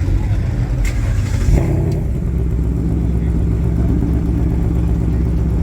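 Car engine running close by with a deep, steady exhaust note, briefly rising about one and a half seconds in, then settling back to a steady idle.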